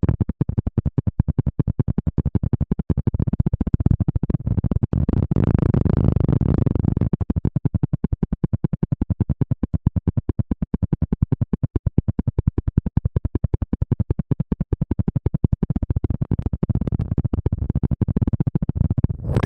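ASMR scratching on the microphone: rapid, evenly spaced strokes close on the mic, deep and loud, that stop near the end.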